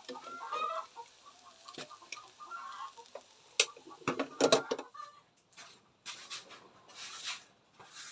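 Chickens clucking in short, wavering calls. A few sharp knocks and a brief loud clatter come about halfway through.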